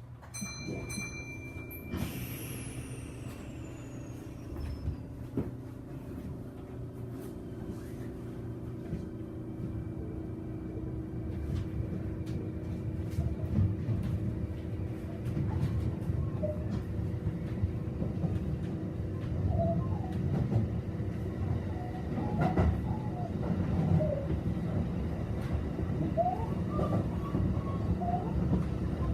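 Kintetsu electric train running, heard from inside the car. Its rumble grows steadily louder, and from about halfway on short creaking squeaks ('kiko-kiko') come again and again from under the floor. The uploader calls it a common noise on these trains. A brief high beep sounds at the very start.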